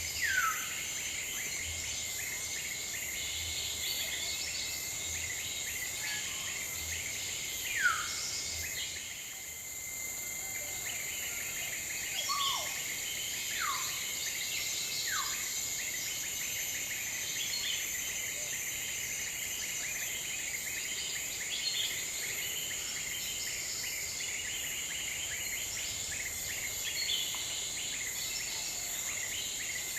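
Steady high insect chorus of forest crickets or cicadas, with a bird's loud, short whistles sliding steeply downward in pitch: one at the start, one about eight seconds in, and three more between about 12 and 15 seconds.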